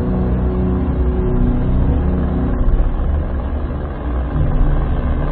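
A steady engine drone, low and even, its pitch shifting slightly about four seconds in.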